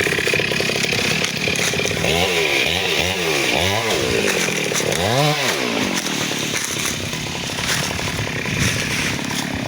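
Chainsaw running and cutting into a teak trunk. Its engine speed swings up and down several times between about two and six seconds in, then settles back to a steady run.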